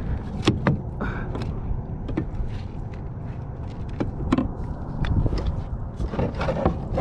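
Scattered clicks, knocks and light scrapes of a hooked redfish and fishing tackle being handled against a plastic kayak while the angler works at a spoon swallowed deep in the fish's throat, over a steady low rumble.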